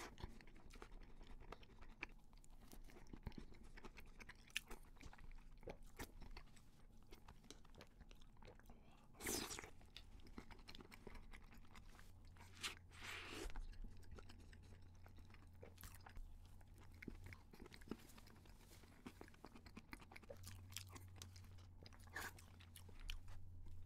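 A person chewing and biting soft, creamy desserts close to the microphone: quiet wet mouth sounds with scattered small crunches and a few louder bites.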